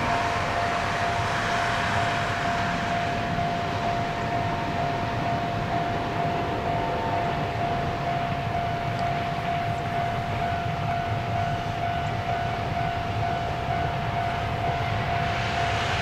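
Distant electric-hauled container freight train running steadily past: an even rumble and rush of wagons on the rails, with a thin steady whine throughout.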